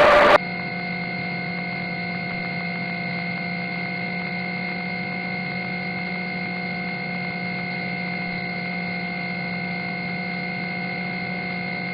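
Steady helicopter cabin noise carried over the intercom: an even hum with several constant tones. A short burst of noise opens it.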